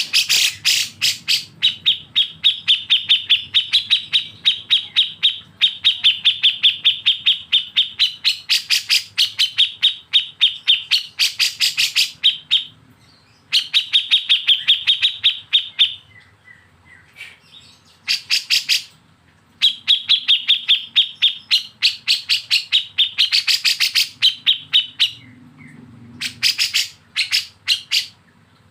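Bulbul song of the kind kept for masteran training (kapas tembak and cucak jenggot): long runs of fast, evenly repeated high notes, about five a second, the rapid 'besetan' phrasing, breaking off into short pauses a few times. A faint low hum lies underneath.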